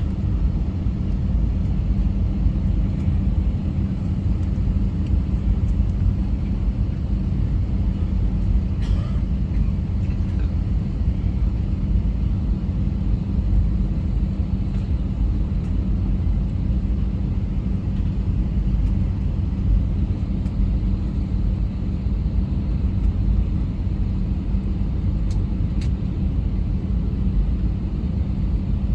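Steady in-flight cabin noise of a passenger jet airliner: a constant low rumble with a steady hum, unchanging throughout.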